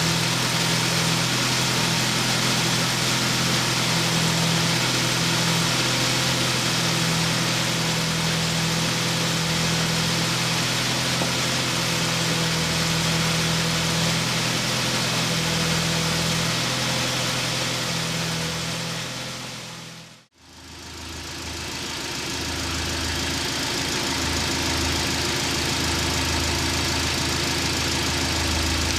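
ZMZ-409 inline-four petrol engine running steadily at idle. About two-thirds of the way through, the sound fades out briefly and comes back, and afterwards the engine note sits lower.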